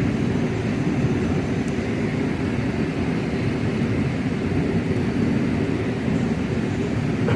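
Steady rushing of river rapids, an even, unbroken roar of water.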